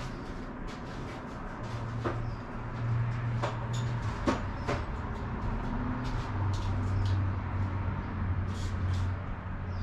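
Hands-on work on parts: four sharp clicks and knocks in the first half, over a steady low hum.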